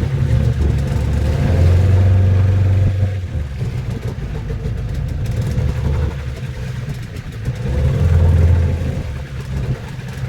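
Glass-bottom boat's engine running as a steady low drone, swelling louder twice, about two seconds in and again about eight seconds in.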